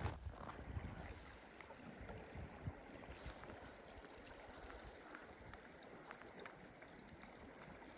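Faint steady rushing noise, with a few soft low knocks in the first couple of seconds.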